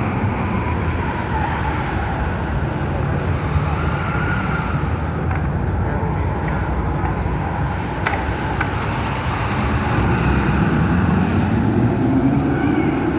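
Steady background din with indistinct voices in it.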